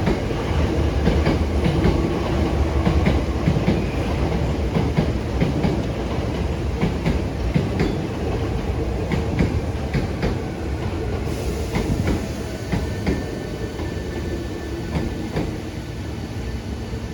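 Osaka Metro subway train running along the platform, a steady rumble with wheels clicking over the rail joints, slowly fading.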